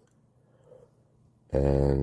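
A man's speaking voice: about a second and a half of near silence, then he resumes speaking with a long, drawn-out "And".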